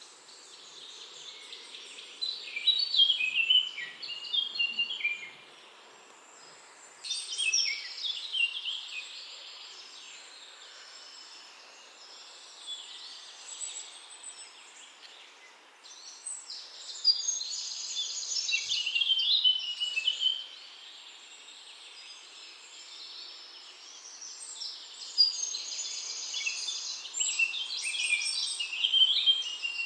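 A songbird singing in quick, high, chirpy phrases, in about four bursts of a few seconds each, over a steady background hiss.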